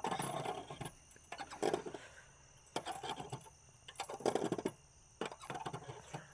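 Swing chains creaking and jangling in a repeating rasp, roughly once every second and a half, as the swing goes back and forth.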